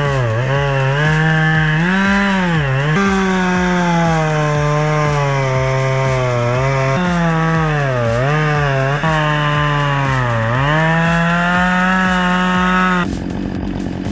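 Chainsaw running near full throttle, its pitch dipping and recovering several times as it bogs down under load in the wood. It cuts off abruptly near the end.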